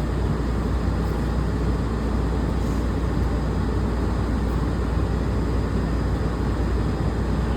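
Steady low rumble and hum inside a Walt Disney World monorail car, even throughout with no rise or fall.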